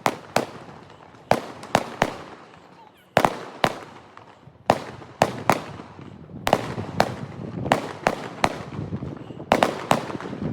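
A fireworks display, with about twenty sharp bangs going off at irregular intervals, some in quick pairs. Each bang trails off in a fading rumble.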